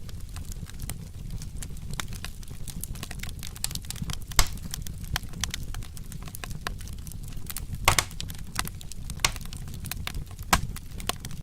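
Wood fire crackling, with frequent sharp pops over a low steady rumble; two louder pops come about four and eight seconds in.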